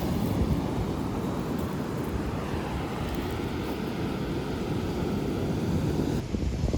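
Wind buffeting the microphone over the wash of surf on a beach: a steady, loud rumbling hiss with no distinct events.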